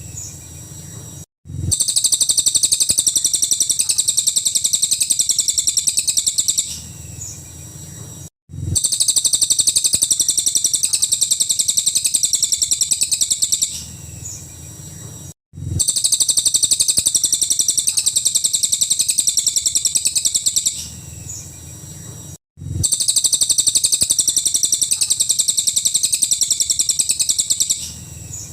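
A cililin songbird singing in long bursts of rapid, high-pitched trilled notes, each about five seconds long, with the same burst repeating about every seven seconds after a short pause.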